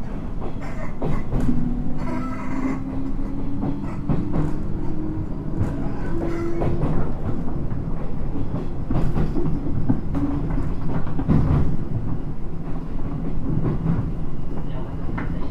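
Interior running sound of a JR 719 series electric multiple unit pulling away from a station. A motor hum rises slowly in pitch over the first several seconds, under wheel clatter and knocks from rough track.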